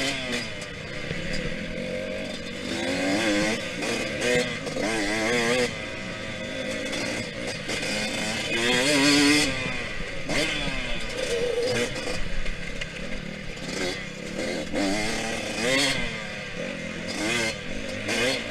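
Yamaha YZ125X dirt bike's two-stroke single-cylinder engine revving up and down again and again as the throttle is worked, loudest in a rev about nine seconds in.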